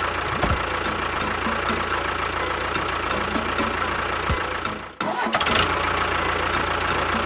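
A steady engine-like running sound with faint quick ticking, about three ticks a second. It cuts out abruptly about five seconds in and then starts again.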